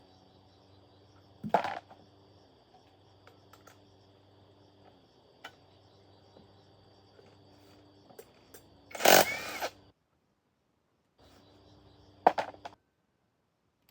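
Three loud knocks over a faint steady hum, the middle one, about nine seconds in, lasting almost a second; the hum cuts out abruptly twice.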